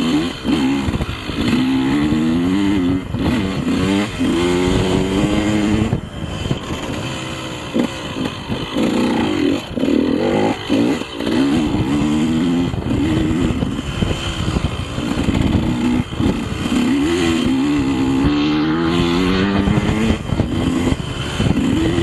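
KTM 150 two-stroke enduro motorcycle engine being ridden hard, revving up and down over and over as the throttle opens and closes.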